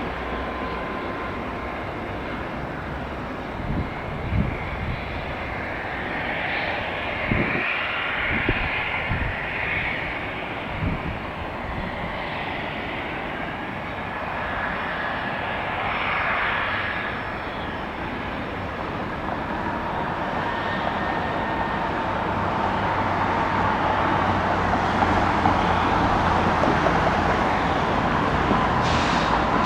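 Jet aircraft engines running at an airport, a steady rushing noise with a faint whine that grows louder over the last third of the stretch. A few short low thumps sound in the first dozen seconds.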